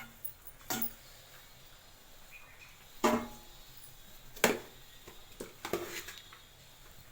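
Several short, sharp knocks of a serving utensil against a clay pot at uneven intervals while chicken pieces and rice are layered for biryani.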